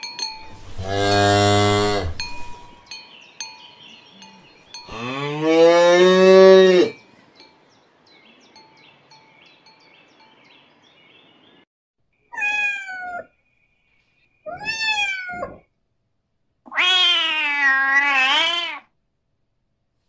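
Highland cattle mooing: two long, low moos, the second rising then falling. About twelve seconds in, a domestic cat meows: two short falling meows, then a longer wavering meow.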